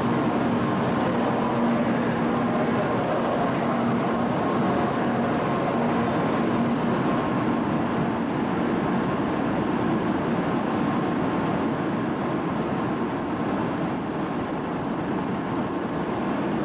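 N700-series Shinkansen train standing at the platform, with a steady hum from its on-board equipment over a constant rush of platform noise.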